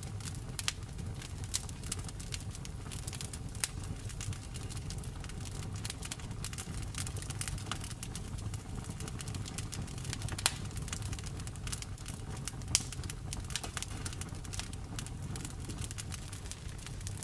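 Wood fire crackling in a fireplace: a steady low rumble of burning with frequent sharp pops and snaps, two louder pops about ten and thirteen seconds in.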